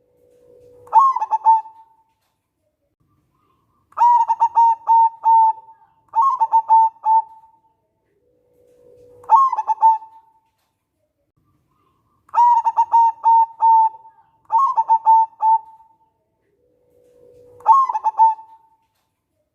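Zebra dove (perkutut) cooing: about seven phrases of quick staccato coos, each a second or so long with short pauses between, three of them opening with a low drawn-out note.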